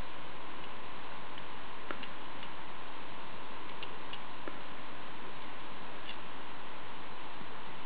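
Faint, irregular light clicks of a Hanayama EQUA cast metal puzzle's pieces being handled, over a steady hiss with a faint constant hum.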